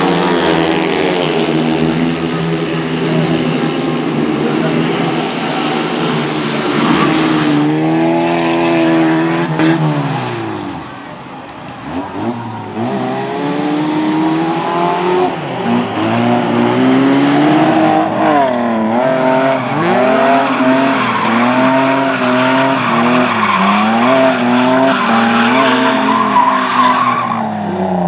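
Race car engine revving hard at high revs, then falling away about ten seconds in. After a brief lull, the car comes back on the throttle in short rising and falling bursts, with tyres skidding.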